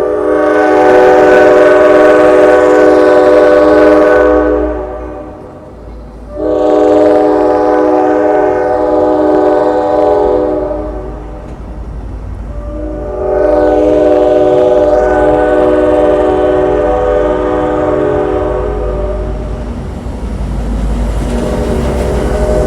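Amtrak NPCU cab car's air horn sounding three long blasts of about four to six seconds each, with a fainter fourth starting near the end. A low diesel rumble builds underneath in the second half as the train moves off.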